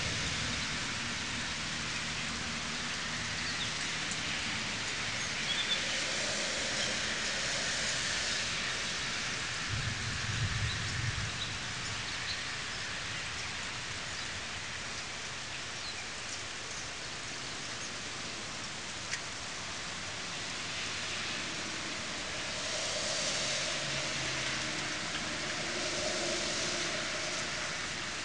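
Steady rain falling on trees and the ground, an even hiss that swells heavier a couple of times. A brief low rumble comes about ten seconds in.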